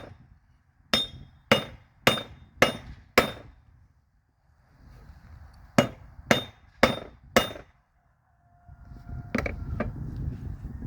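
Forging hammer striking a railroad spike on an anvil, each blow ringing briefly: five blows at about two a second, a pause, then four more. Near the end a steady low rumble takes over, with a couple of clicks.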